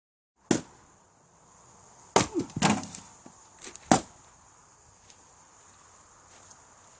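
Axe splitting oak firewood: a sharp chop about half a second in, two more chops around two and a half seconds in followed by split pieces clattering, and a last sharp strike near four seconds.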